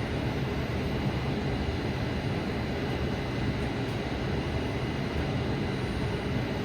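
Steady whooshing hum inside a stopped Kinki Sharyo light rail car, its air conditioning and onboard equipment running while it waits to depart.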